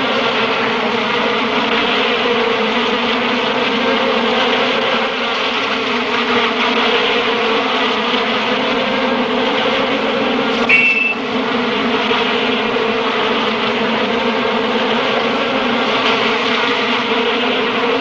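Swarm of honeybees buzzing steadily in a dense, unbroken drone, with one brief high chirp about eleven seconds in.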